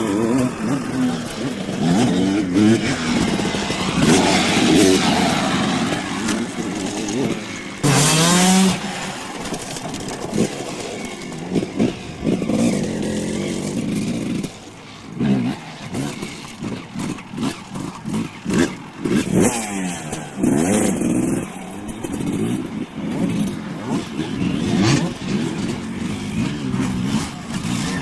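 Dirt bike engines revving and easing off over and over, their pitch rising and falling as the bikes ride the track, with one loud surge about eight seconds in.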